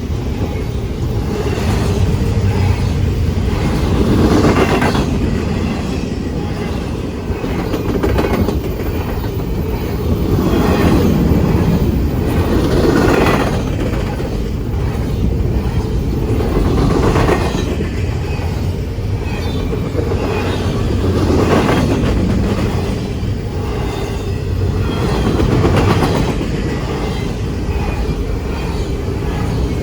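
Freight train cars rolling past on the rails: a continuous rumble and clatter of wheels that swells and fades every few seconds as the cars go by.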